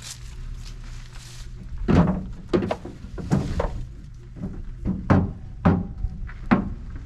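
A series of about eight irregular wooden thunks and knocks, typical of 2x4 boards being laid and knocked into place across a pickup bed, over a steady low hum.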